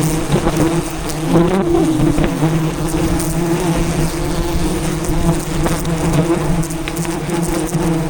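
A swarm of wild honeybees buzzing around their hive in a dense, steady drone.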